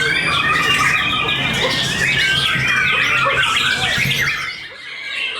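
Many caged songbirds singing at once at a songbird contest: a dense, overlapping chorus of quick chirps, trills and whistles. A low steady hum runs underneath and stops about four and a half seconds in, when the chorus briefly thins.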